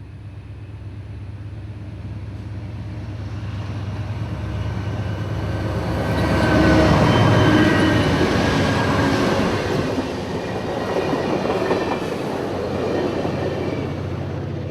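Amtrak passenger train approaching and passing on the connection track, its engine and wheels on the rails growing steadily louder to a peak about seven seconds in, then staying fairly loud as the cars roll by.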